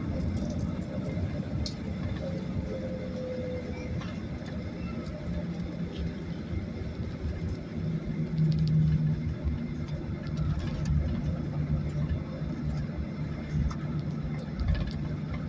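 Cabin noise inside a Boeing 737 airliner: steady rumble of the jet engines and airframe, with a low hum that grows stronger about halfway through and a few small clicks.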